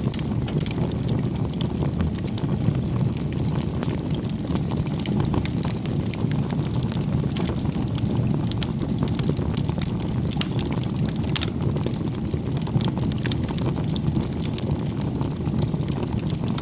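Wood fire burning, with a steady low roar and frequent small crackles and pops.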